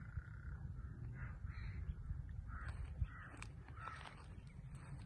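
Birds giving short, harsh, repeated calls, a few each second, over a steady low rumble.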